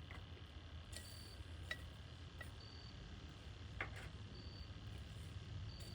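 A few light clicks as hot charcoal coals are set one by one onto a cast iron Dutch oven lid, over a low steady hiss. A faint short high chirp recurs about every second and a half.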